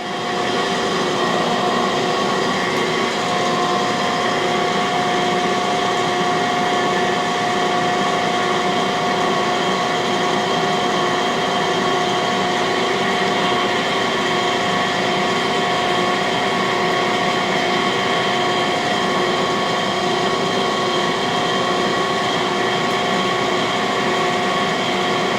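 Cam grinding machine running steadily: a motor whine with several held tones over a rushing hum, while the camshaft is spun to check it for runout before grinding.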